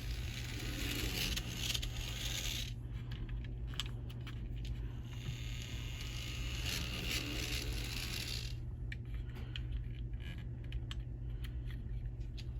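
N scale Bachmann GE U36B model diesel locomotive running along the track: its motor whirs and its wheels click over the rail joints over a steady low hum. The sound swells as the locomotive passes close and fades away, twice. The owner thinks it sounds like it needs its wheels cleaned.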